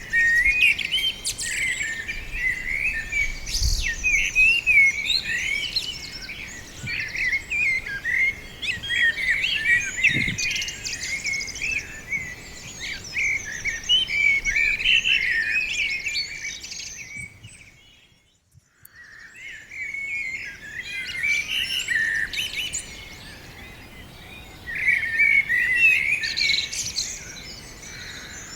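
A chorus of small songbirds singing and chirping over one another, with quick, busy warbles. About two-thirds of the way through, the song fades almost to silence for a moment, then returns.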